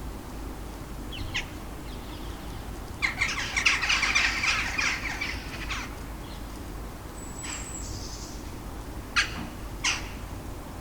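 A bird giving a loud, harsh rattling call lasting a couple of seconds, starting about three seconds in. A few short, sharp calls come before and after it.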